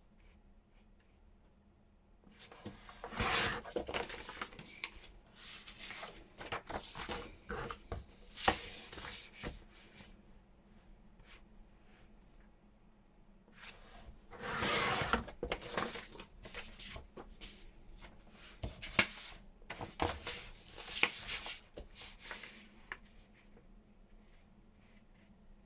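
Sheets of paper being handled by hand, rubbed and slid across a desk, in two bouts of scratchy rustling with small knocks, the second starting about halfway through.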